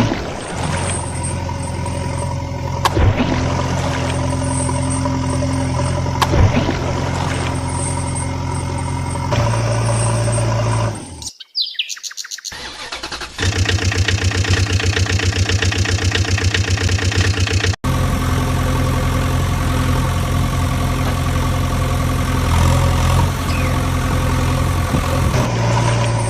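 Vehicle engine sound running steadily, dropping out about eleven seconds in, then coming back as a fast, even chugging that cuts off abruptly, then running steadily again.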